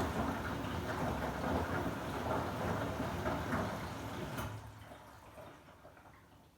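Samsung WW90J5475FX front-loading washing machine tumbling laundry through water in its rinse cycle, a steady sloshing rush. A click comes about four and a half seconds in, after which the sound dies away.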